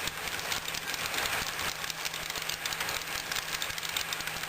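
Model train running on the layout track: many small fast clicks over a steady low hum.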